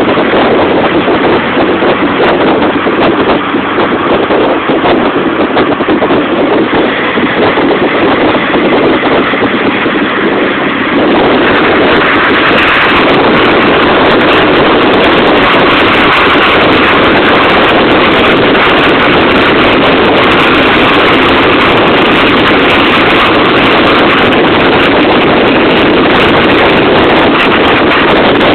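Tiger Cat E1 kit car on the move: engine and rushing wind noise blended into a dense, loud roar, stepping up louder and brighter about eleven seconds in as it speeds up.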